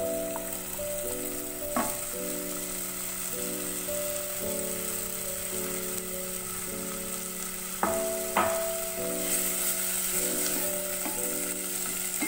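Chopped fenugreek (methi) leaves sizzling in hot oil in a pan, stirred with a wooden spatula that knocks against the pan about two seconds in and twice around eight seconds in. Soft background music with sustained notes runs underneath.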